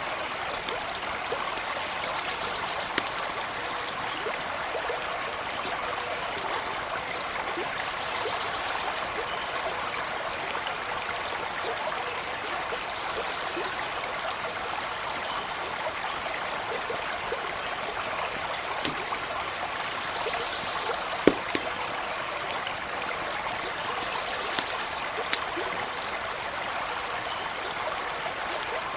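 Small stream babbling and trickling steadily, with scattered sharp crackles and a few louder pops from a campfire, the loudest about two-thirds of the way through.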